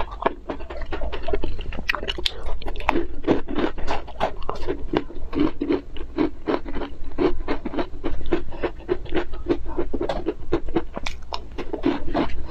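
Close-miked chewing: a person chewing soft food with the mouth closed in a steady rhythm of about two to three chews a second, with small wet clicks and smacks in between.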